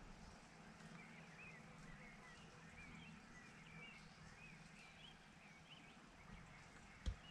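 Faint small-bird song: many short, quick chirps and twitters over a low steady hum, with one brief low thump near the end.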